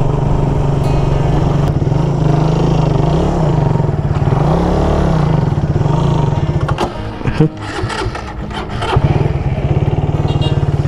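Suzuki Raider 150 single-cylinder four-stroke motorcycle engine running while ridden, its revs falling and rising. About seven seconds in it falters, with a few clunks, then runs steadily again about two seconds later.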